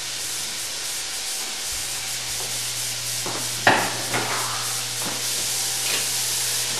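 Chicken pieces sauteing in butter in a frying pan, a steady sizzle, with a sharp knock a little past the middle and a few lighter knocks after it.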